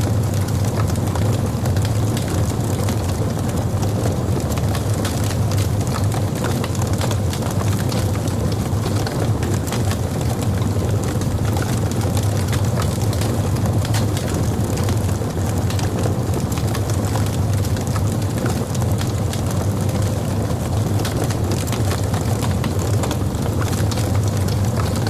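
Wood logs burning in a fireplace: many small crackles and pops over a steady low rumble of the fire.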